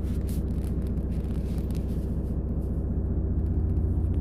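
A truck's diesel engine running with a steady low rumble that grows slightly louder. The truck is stuck in deep snow.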